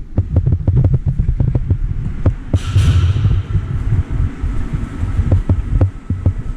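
Irregular, pulsing low rumble of wind buffeting the microphone of a handheld camera while walking, with scattered sharp clicks and knocks and a brief hiss about two and a half seconds in.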